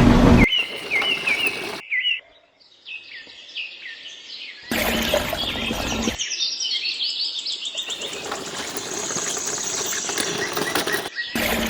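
Songbirds chirping: many quick, repeated descending chirps that start and stop abruptly as if cut together. Two short bursts of noise break in partway through and near the end.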